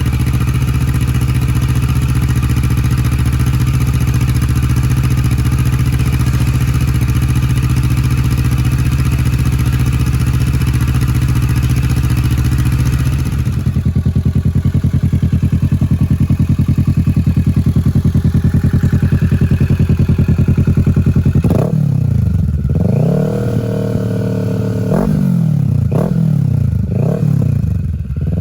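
Kawasaki Ninja 650 parallel-twin engine running through a Mivv Oval titanium full-system exhaust. It idles steadily for the first half, then in the last seven seconds or so it is blipped several times, the revs rising and falling quickly each time.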